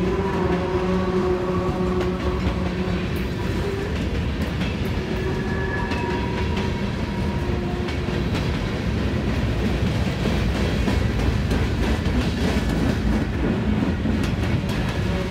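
Freight train of covered hoppers and tank cars rolling past: a steady rumble of steel wheels on rail with scattered rail clicks, and a whining tone that comes and goes.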